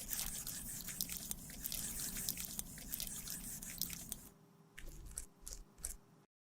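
Close-miked crackling and squishing of a cosmetic product being crushed and mixed: a dense run of small sticky clicks that thins to scattered ticks after about four seconds and cuts off abruptly near the end.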